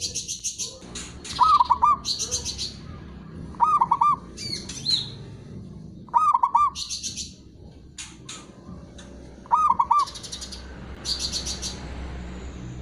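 Male zebra dove (perkutut) cooing: four short phrases of quick hooked coos, a couple of seconds apart. Between them come bursts of rapid, high-pitched chirping.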